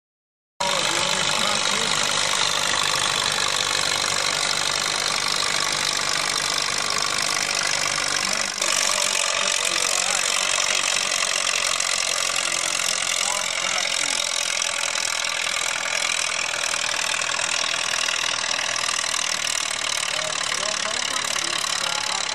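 Tractor engine running steadily, with voices mixed in; the sound cuts in abruptly after a brief silence at the start.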